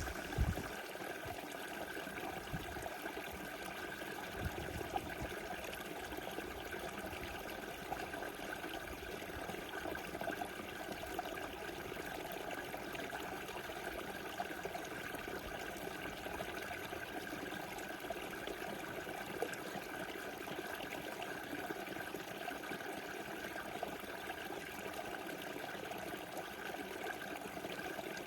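Small river rushing and trickling steadily over its bed. A few faint low bumps come in the first few seconds.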